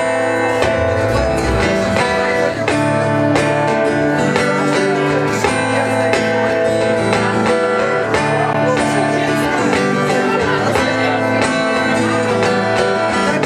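Rock band playing a song's instrumental intro: guitar chords over drums keeping a steady beat.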